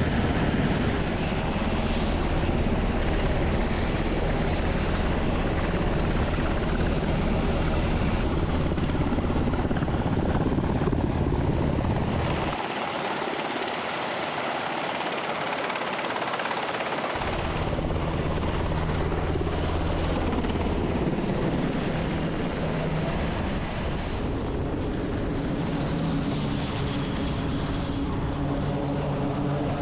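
Helicopter rotor and turbine engine running steadily with a deep, pulsing rumble. In the middle the rumble drops out for about five seconds, leaving a high hiss and whine, then returns.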